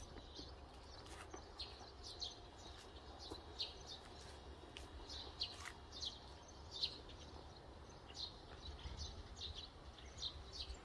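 Small birds chirping faintly: many short, high chirps scattered throughout, over a steady low rumble.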